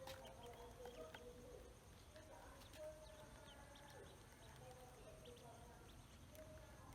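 Faint poultry calls: short high peeping chirps of ducklings scattered over lower, drawn-out clucking calls.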